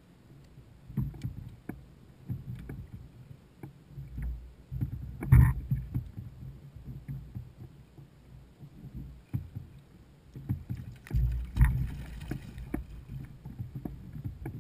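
Handling noise on a fishing kayak at sea: irregular knocks and thuds against the hull over water sloshing, with two louder thumps, about five seconds in and again near twelve seconds.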